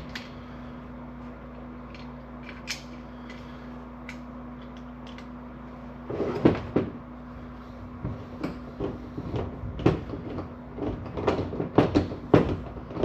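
Scattered clicks and knocks of parts and tools being handled, growing busier about halfway through, over a steady low hum.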